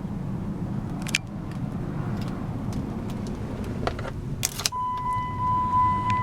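Chrysler 300M Special's 3.5 L V6 idling steadily, with a few sharp clicks. About three-quarters of the way in, a steady high electronic warning tone comes on and holds.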